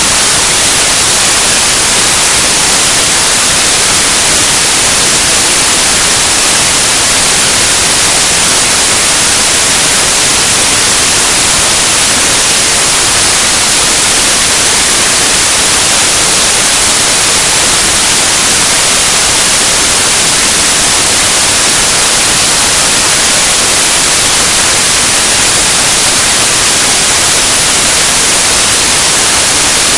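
Loud, steady hiss like static or white noise, unchanging throughout; no motorcycle engines can be picked out.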